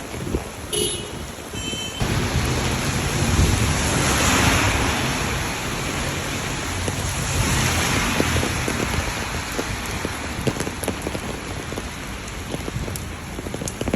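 Heavy rain falling in a cold wind, with wind rumbling on the microphone. The hiss swells and fades twice.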